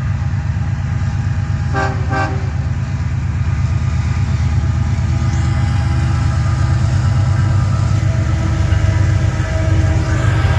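Diesel freight locomotive approaching and passing, its engine running with a steady low rumble that grows louder, with two brief horn toots about two seconds in.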